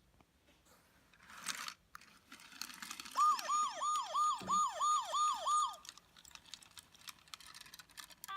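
VTech Toot Toot Drivers toy police car's electronic siren: eight quick falling swoops, about three a second, lasting about two and a half seconds. A short rushing noise comes before it, and faint clicks follow.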